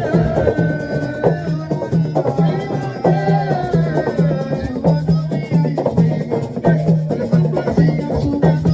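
Live group drumming: drums playing a steady, fast repeating beat with shakers or rattles, and singing over it.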